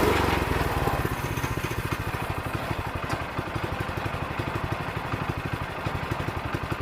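Sawmill's small engine running with an even, rapid pulse, louder in the first second and then settling to a steadier run.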